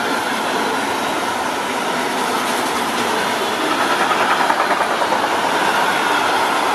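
Intermodal freight train's wagons passing at speed: steady rolling noise of steel wheels on rail, swelling slightly about four seconds in.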